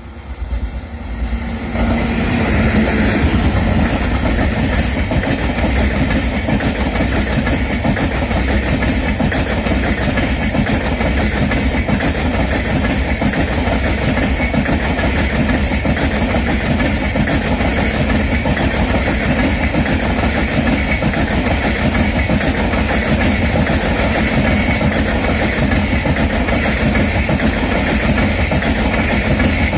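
Express passenger train passing close at speed: the sound swells quickly over the first couple of seconds as the WAP7 electric locomotive arrives, then the LHB coaches keep up a steady, loud rush and rumble of wheels on rail.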